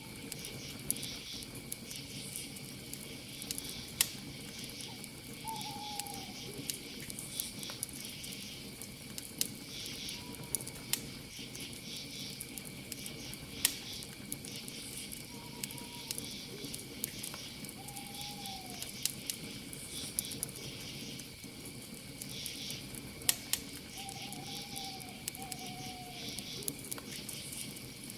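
A campfire crackling, with sharp pops every second or so and a few louder snaps, over a steady cricket trill. An owl gives short falling calls every few seconds.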